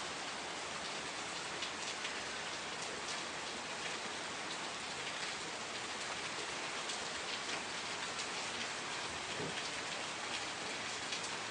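Steady rain falling, with a dense patter of drops on surfaces.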